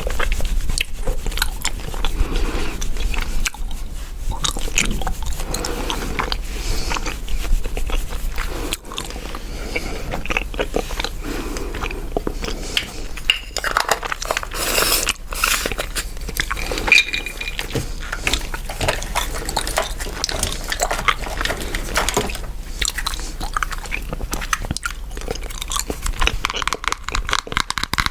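Chewing gum close to the microphone: a continuous run of small clicks and crackles.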